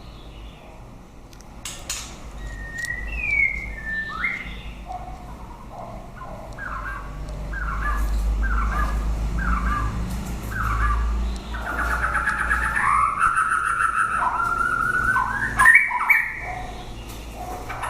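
White-rumped shama singing: a few whistled glides, then a series of short repeated notes about two a second, then a fast trill and more varied whistled phrases. A low hum runs underneath, and a sharp click comes near the end.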